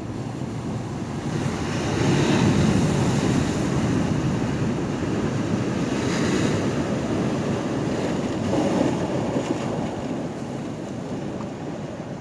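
Ocean waves washing against a pier: a loud, steady rush of surf that swells about two seconds in, surges again twice, and eases off near the end.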